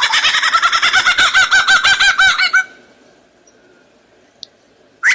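A bird calling in a fast run of repeated notes, about seven a second, that stops about two and a half seconds in; after a short pause a new run starts right at the end.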